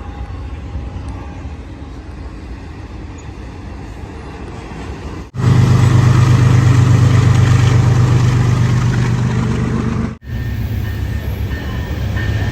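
Trackside train noise in three clips cut together: a steady rumble, then about five seconds in a much louder clip with a deep low drone from a train close by, then an abrupt cut to another train clip about ten seconds in.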